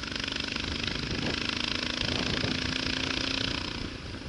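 Motorcycle engine running steadily under way, with loud wind and road rush over it; the engine note eases off near the end.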